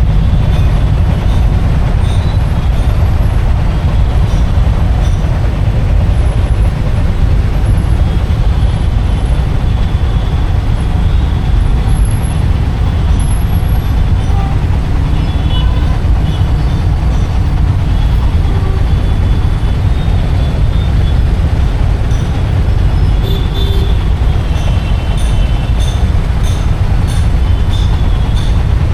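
Bajaj Dominar 400's single-cylinder engine running as the motorcycle is ridden through city traffic, recorded from the rider's camera. It makes a steady, loud low rumble with no pauses.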